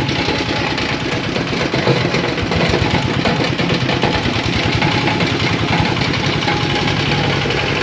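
Fabric-grinding machine with an 8 mm screen running steadily: a loud mechanical drone with a dense, rapid rattle.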